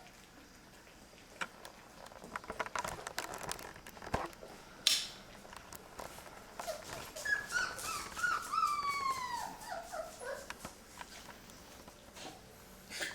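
Labrador retriever whimpering: a run of short, high whines that each slide down in pitch, the series falling lower over about four seconds. Before it come light clicks and taps and one sharp scuffling noise.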